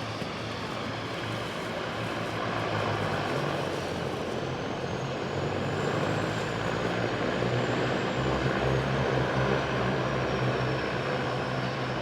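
De Havilland Otter floatplane running its engine and propeller in a steady drone that grows gradually louder, with a faint high whine above it.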